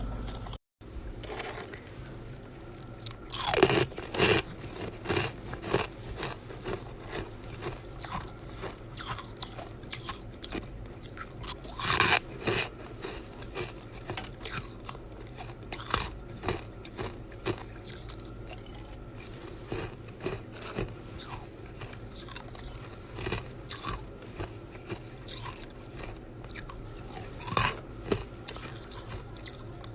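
Chest-freezer ice being bitten and chewed close to the microphone: repeated crunching chews, with loud bites about four seconds in, near twelve seconds and near the end. The sound drops out for a moment just after the start.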